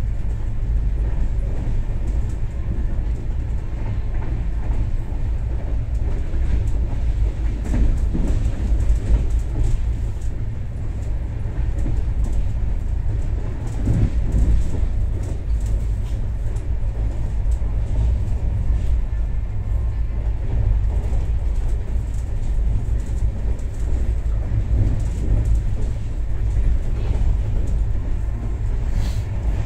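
Moving passenger train heard from inside a closed coach: a steady low rumble of wheels running on the rails, with scattered faint clicks.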